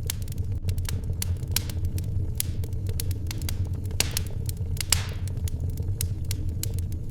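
Wood fire crackling in a fireplace: scattered sharp pops and snaps over a steady low rumble, with a brief hiss about four seconds in.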